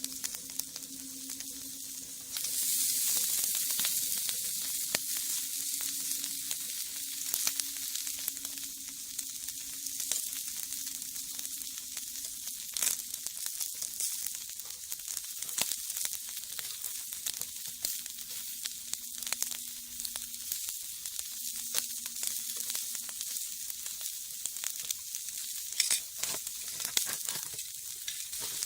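Shishamo sizzling on a wire grill net over a wood fire in a brick rocket stove: a steady hiss that gets louder about two seconds in, with scattered crackles and pops throughout.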